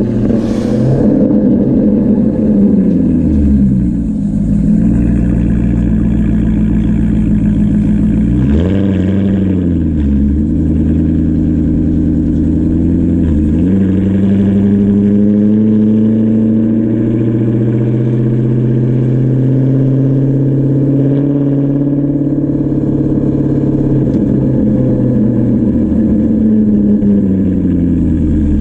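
Straight-piped, naturally aspirated V8 of a 2008 Maserati GranTurismo under way, its exhaust note climbing and dropping back several times as it pulls through the gears. It then holds a steady cruise and falls off near the end.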